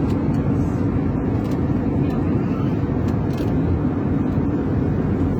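Steady low drone of an airliner at cruise, engine and airflow noise heard from inside the passenger cabin.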